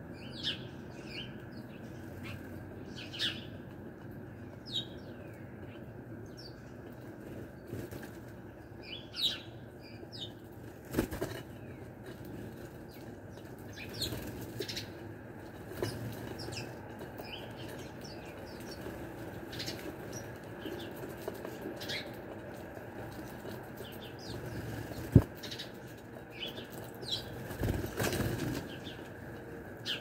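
Small birds chirping in short, scattered calls, with wings fluttering as birds land and take off. Near the end comes a single sharp tap, the loudest sound, over a steady low background hum.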